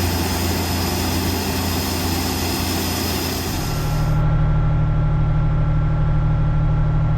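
Heavy farm machinery engine running steadily. A little past halfway it changes to a deeper, steadier hum as the high hiss drops away.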